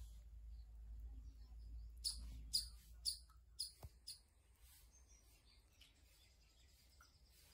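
A bird chirping a short run of about five or six high notes, about two a second, then a faint thin held note. A low rumble lies underneath.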